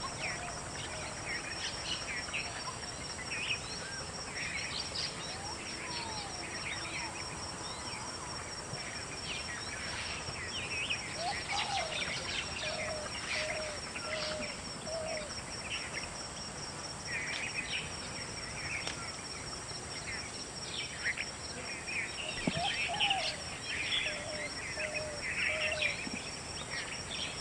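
Several wild birds chirping and calling, with many short high chirps over a steady, high, rapidly pulsing insect trill. A run of four or five short, lower notes comes about halfway through and again near the end.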